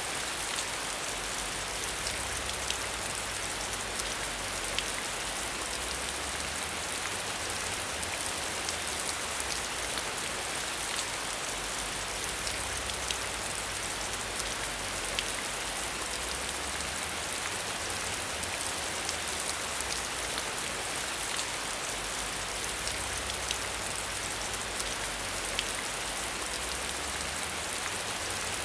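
Steady rain falling, with many scattered small drop ticks over an even hiss and a faint low rumble underneath.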